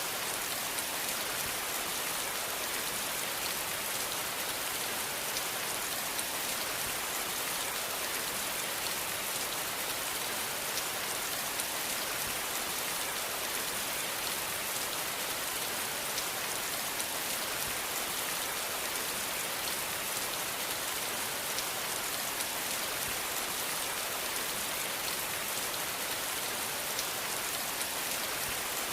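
Steady rain falling, a dense even hiss with the patter of drops on a surface.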